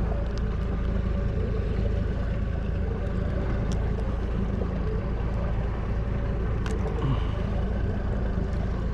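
Small boat's outboard motor running steadily at trolling speed, a constant low rumble with water and wind noise over it, and a couple of light clicks around the middle.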